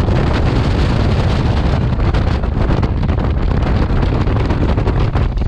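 Wind rushing over the microphone with the loud, steady running rumble of a moving local train and a rapid clatter of wheels on the track, heard from the train's open doorway.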